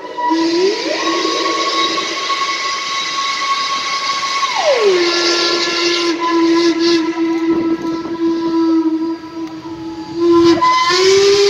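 Steam locomotive whistles blowing long and continuously, one tone held steady while another slides up, drops low for several seconds, then slides up again near the end, over a hiss of escaping steam.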